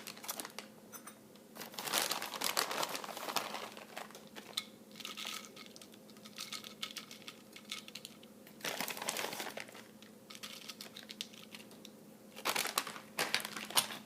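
Crinkling and rustling as shredded cheddar cheese is spooned out and sprinkled over tortilla chips on a plate, in three short bursts. A faint steady hum runs underneath.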